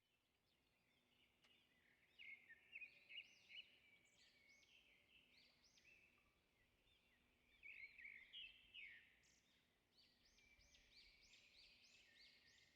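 Faint birdsong: many short, arching chirps from several birds, busiest about two seconds in and again from about eight seconds on.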